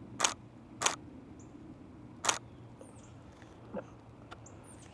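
Three brief crunches within the first two and a half seconds, the loudest sounds here. Between and after them come faint, very short high chip notes that drop slightly in pitch, typical of northern cardinals calling.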